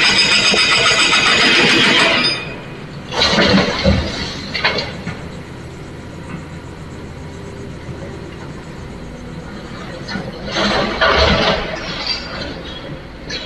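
Excavator loading a dump truck: a diesel engine runs steadily underneath three loud, noisy stretches, the longest at the start, another a few seconds in and one near the end.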